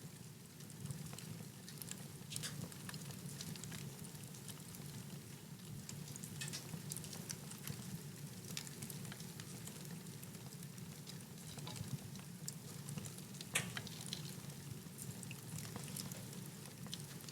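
Wood fire burning in a fireplace: a steady low rumble with scattered crackles and small pops, one sharper pop about two-thirds of the way through.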